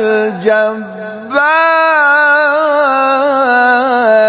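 A man's voice in melodic Qur'anic recitation (tilawah), without distinct words. The pitch wavers and dips for about the first second and a half, then settles into a long, held, ornamented note that is drawn out between verses.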